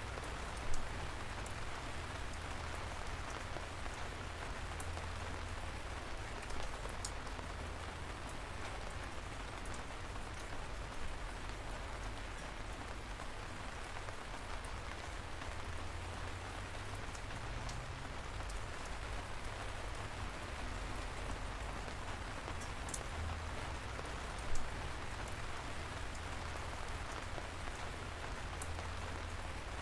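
Light rain falling steadily: an even hiss with scattered sharp drop taps, and two louder single drips, one about a second in and one near the end, over a low rumble.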